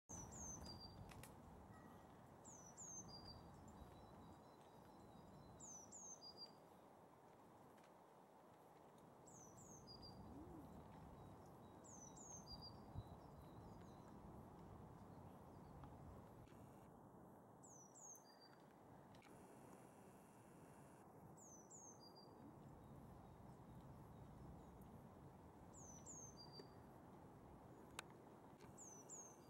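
Faint small-bird song: a short, high phrase of two quick falling notes and a brief lower note, repeated every few seconds over quiet outdoor background noise.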